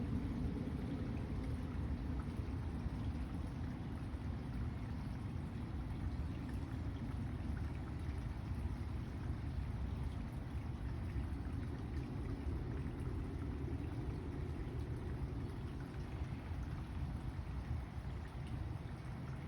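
Steady low outdoor background rumble with a light hiss on top and no distinct events.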